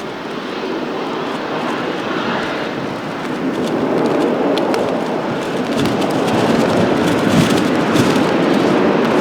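Airliner on final approach, its jet engines growing louder as it nears, mixed with strong wind buffeting the microphone in crackly gusts.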